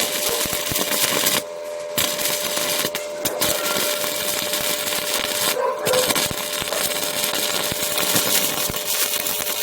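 Electric arc welding with a Sakura 315A welder: the arc's continuous crackling sizzle, full of sharp pops, breaks off briefly three times. A steady hum runs underneath.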